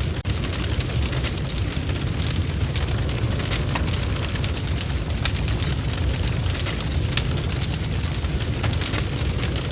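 Bonfire burning: a steady low roar of flames with frequent sharp crackles and pops of burning wood. The sound drops out for a split second near the start.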